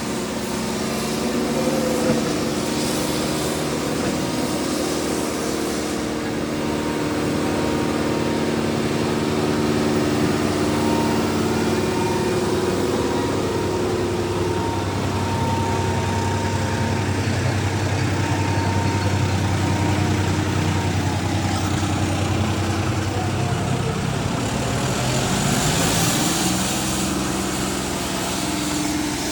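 Farm tractor diesel engines running steadily, with the engine pitch shifting about 25 seconds in.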